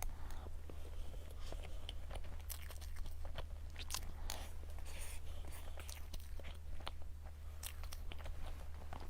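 Close-miked chewing and biting: a person eating, with many short, irregular mouth clicks over a steady low hum.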